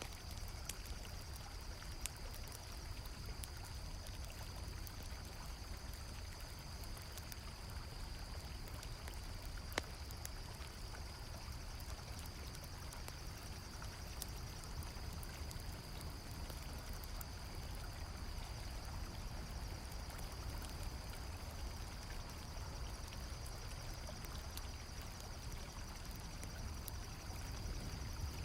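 Steady rush of a flowing river, with occasional sharp crackles and pops from a campfire and a continuous high-pitched chorus of crickets chirping.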